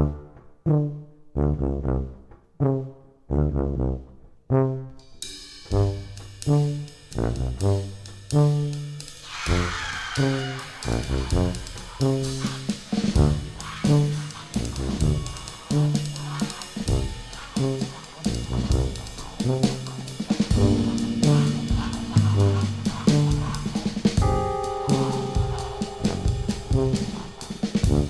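Jazz brass ensemble music with trumpets, baritone saxophone, tuba, keyboards and drum kit. It opens with short, evenly spaced low notes; about five seconds in the full band and drums come in, with a cymbal crash around ten seconds.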